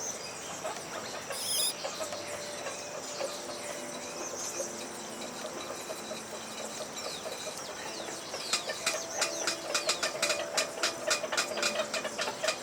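Small birds chirping and calling in short high notes. About two-thirds of the way in, a quick run of sharp clicks or taps starts and grows louder.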